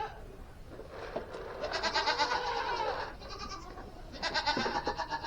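Hungry goats bleating, two long wavering bleats about a second apart, as they wait to be fed.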